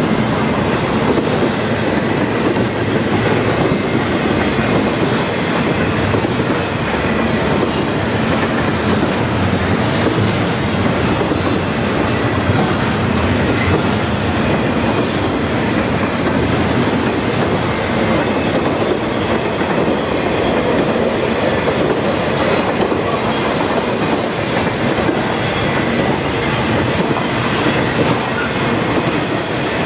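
Freight train cars rolling steadily past, wheels clattering over the rail joints.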